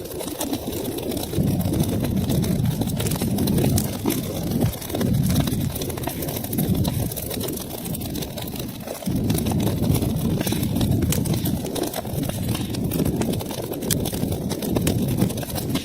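Wood fire burning in a fireplace: a low, surging rumble of flames with frequent sharp crackles and pops scattered throughout.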